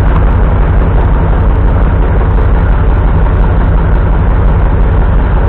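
Farm tractor engine idling steadily, loud and close.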